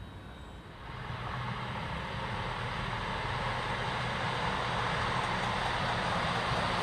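Diesel passenger train approaching: its engine hum and running noise swell in about a second in and grow steadily louder.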